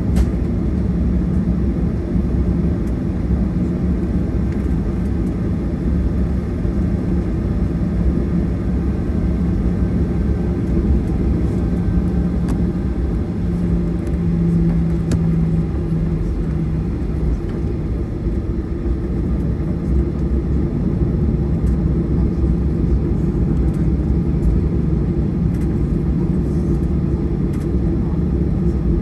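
Boeing 737-800's CFM56-7B jet engines running at low power, heard inside the cabin as a steady low rumble. A low hum sits over the rumble and fades out about two thirds of the way through.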